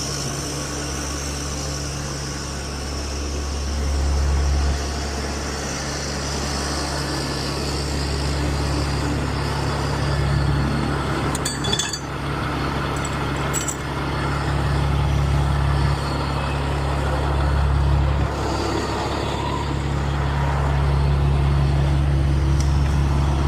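Tanker truck's diesel engine running steadily with the PTO engaged, driving the product pump during an offload, with a low even hum that swells and eases a little. A couple of brief metallic clinks about halfway through.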